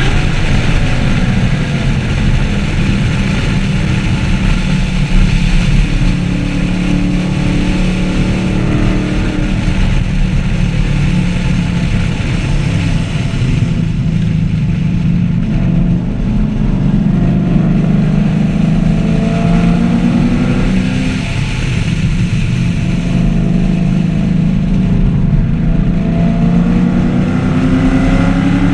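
2014 Camaro 1LE's V8 engine running hard at speed, its pitch rising and falling as it accelerates and eases off, with a steady rush of road and wind noise underneath.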